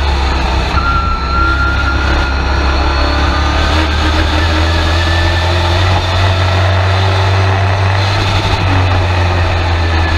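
Race truck's engine heard from inside the cab, running loud and steady throughout, with little change in pitch.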